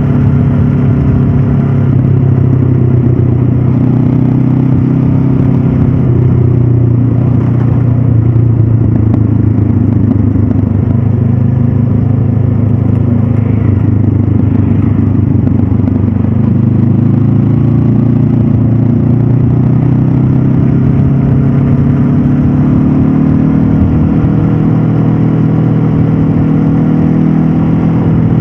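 Honda CB500F's parallel-twin engine running steadily under way through its stock exhaust. The revs ease off a little partway through, then rise gradually again in the second half.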